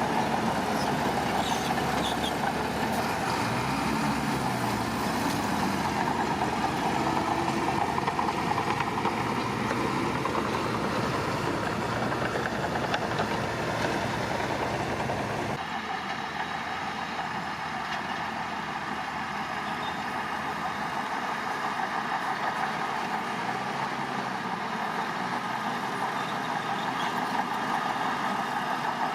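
Diesel engines of heavy earthmoving machinery running steadily. The low end of the sound changes abruptly a little past halfway through.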